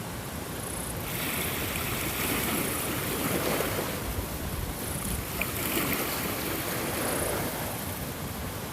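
Ocean waves washing in, a steady rushing that swells and eases over a few seconds.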